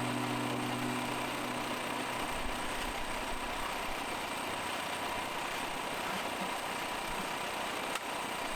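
Portable sawmill running steadily as an even mechanical drone. The last notes of background music fade out in the first two seconds.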